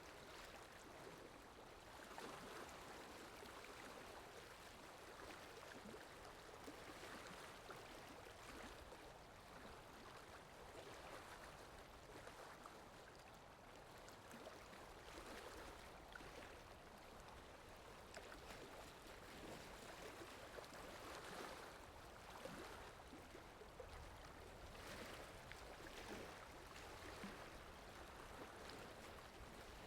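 Near silence: a faint, even hiss that swells and fades softly, with no distinct events.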